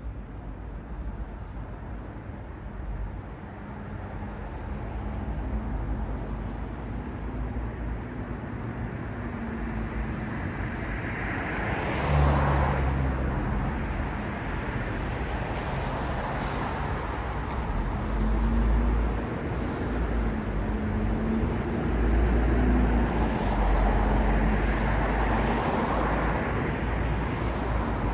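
City street traffic: steady road noise with vehicles passing, the loudest going by about twelve seconds in, under the low hum of an engine that fades in and out.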